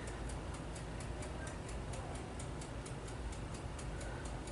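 Faint, steady ticking, about four ticks a second, over a low indoor hum.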